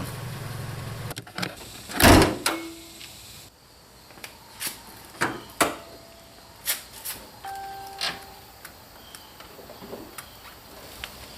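Car door shutting with a loud thud about two seconds in, followed by scattered clicks and knocks and a couple of short beeps.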